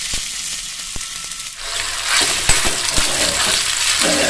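Minced chicken sizzling as it fries in hot oil in a kadai, with a metal spoon clinking and scraping against the pan as it is stirred. About one and a half seconds in, the frying hiss grows louder.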